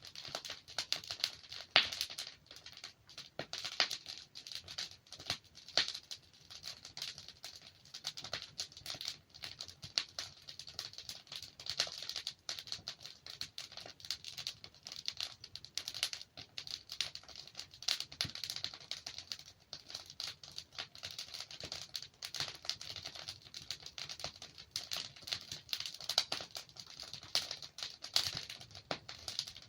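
Wood fire in a fireplace crackling and popping: a dense, irregular run of small cracks, with one louder pop about two seconds in.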